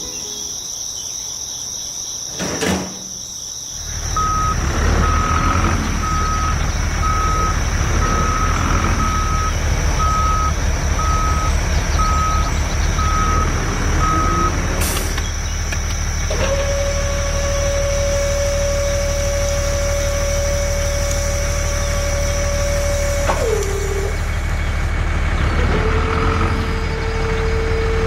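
A vehicle engine starts running steadily about four seconds in, with a reversing beeper sounding about once a second for ten seconds. Then come two long, steady horn-like tones, each falling in pitch as it cuts off.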